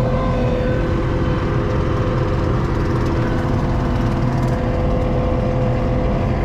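ASV RT-40 compact track loader's diesel engine running steadily with a constant whine over a low rumble.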